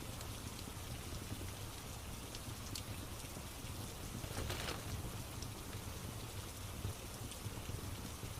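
Steady rain ambience with scattered small crackles of a wood fire. A brief louder rush of noise comes about halfway through.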